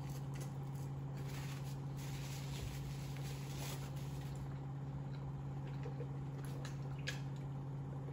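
Faint chewing of French fries with a few soft napkin rustles and small clicks, over a steady low hum.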